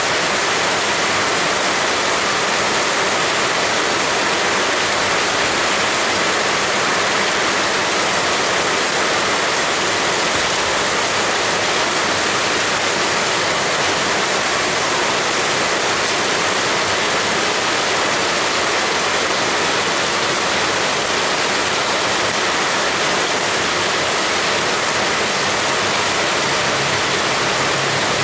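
Heavy rain pouring down in a steady, dense hiss, with no change in strength.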